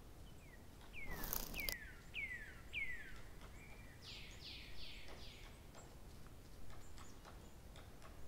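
A bird singing: four short falling whistles about half a second apart, then a quicker run of four falling notes. A brief rustling burst comes about a second in, and faint clicks are scattered throughout.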